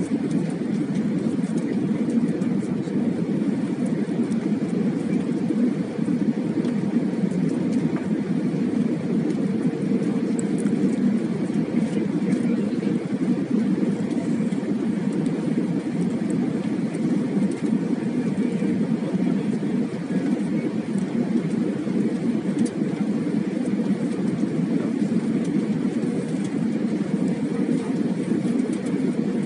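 Steady rushing drone of an Airbus A320 heard from inside the cabin: airflow and engine noise, even throughout with a faint steady hum on top and no sudden knocks.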